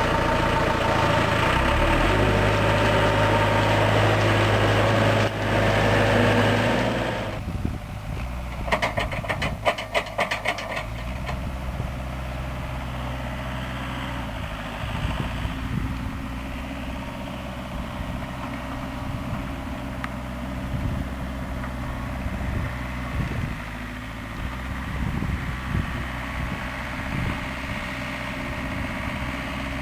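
Tractor engine running loudly, then dropping suddenly to a quieter, steady idle about seven seconds in. A quick run of rattling clicks follows around nine to eleven seconds.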